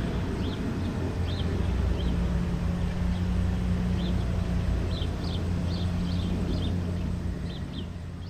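Small birds chirping in short, repeated calls over a steady low drone, with the sound fading out near the end.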